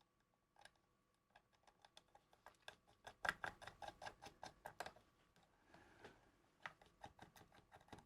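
Faint clicks and taps of small metal hardware, nuts, washers and ring terminals, being handled and fitted by hand onto a balun's terminal studs. The clicks are sparse at first, busier in the middle, then scattered again.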